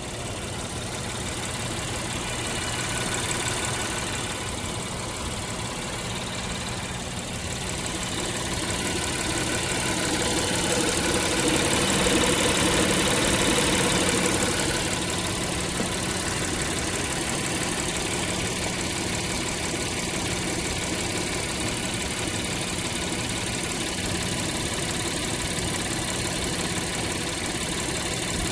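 2019 Acura MDX V6 engine running steadily, growing louder for several seconds around the middle. It is making a noise that the owner links to the crankshaft having been replaced under a recall.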